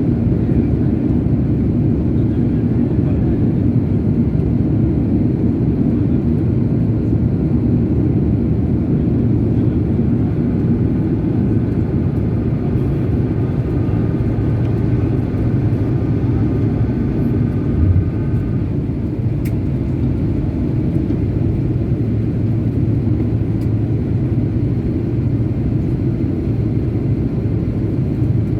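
Airplane in flight: a steady low roar of engines and rushing air, with a faint high tone in the middle and a brief low thump about eighteen seconds in.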